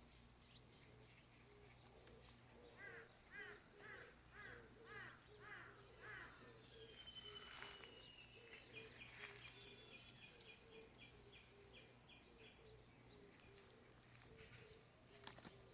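Faint birds calling outdoors: a run of repeated arching chirps at about two a second, then a falling whistle followed by a quick series of short notes, over a low note that repeats steadily throughout. A couple of sharp clicks near the end.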